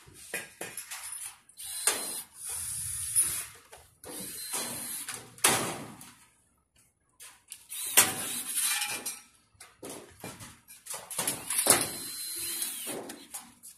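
Sheet-metal storage shed parts being handled and fitted: irregular metallic scrapes, clanks and knocks, the loudest three coming about five and a half, eight and twelve seconds in, with a short quiet gap in between.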